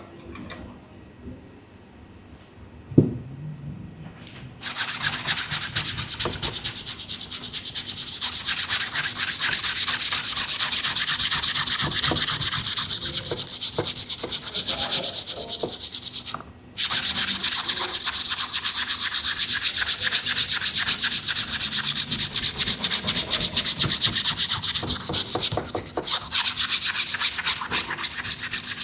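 Rapid, vigorous scrubbing on a sneaker: a dense back-and-forth rasp of bristles or abrasive. It starts about five seconds in after some quiet handling and a knock, breaks off for a moment a little past halfway, then carries on.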